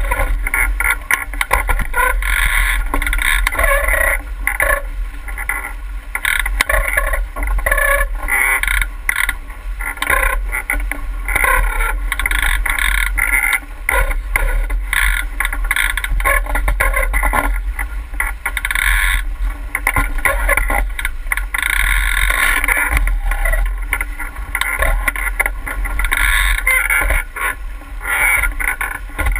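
Water rushing and splashing along the hull of a 49er skiff sailing upwind, uneven and continuous, over a steady low rumble.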